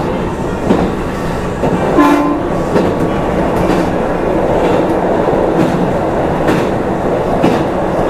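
Kintetsu 12200 series electric train running along the line: a steady rumble of wheels on rail with irregular clacks as the wheels cross rail joints, and a short tone about two seconds in.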